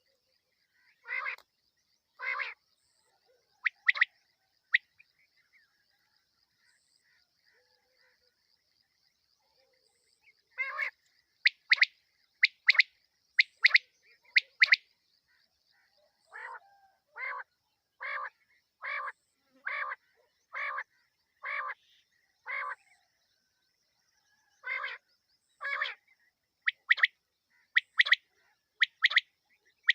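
Female quail (batair) night call, the kind played to lure quail: short calls in groups, some sharp and high-pitched in quick pairs, others lower and buzzier repeated about once a second. The calls pause for several seconds after the first few and then resume; a faint steady high trill runs underneath.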